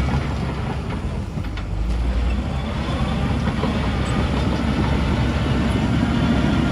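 Heavy diesel earthmoving machinery running, a steady low engine rumble that eases briefly about a second in.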